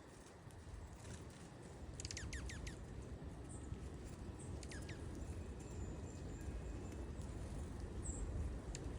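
Small wild birds calling: quick chirps that sweep steeply down in pitch, a run of four about two seconds in and two more near five seconds, with a few short high single notes between. A steady low rumble lies underneath.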